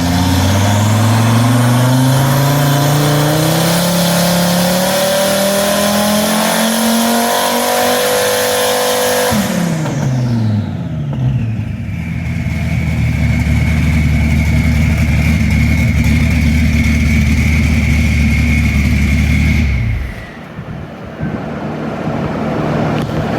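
Twin-turbocharged Gen 2 Dodge Viper's 8.0-litre V10 making a full-throttle pull on a chassis dyno: revs rise steadily for about nine seconds, then fall quickly as the throttle is lifted. The engine then runs at a steady speed with a steady high whine for about nine seconds before the sound drops away near the end.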